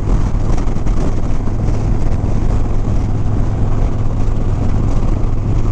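Harley-Davidson Sport Glide V-twin engine running steadily at cruising speed, a constant drone under a rush of wind and road noise.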